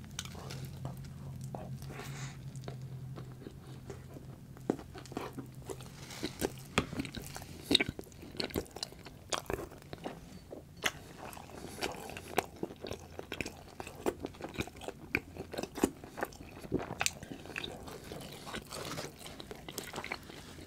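A person eating close to the microphone: biting and chewing, with irregular sharp mouth clicks and smacks and a few louder ones scattered through.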